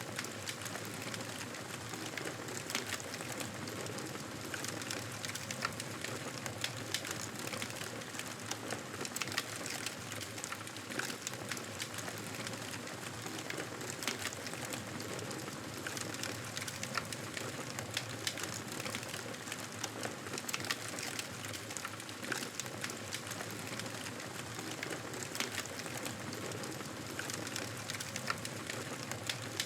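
Wood fire crackling in a fireplace: a steady hiss with irregular small pops and snaps throughout.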